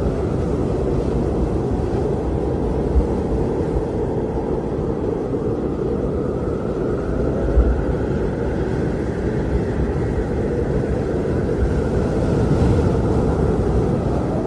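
Blizzard wind blowing steadily with a low rumble, and a faint howl that slowly rises and falls in pitch.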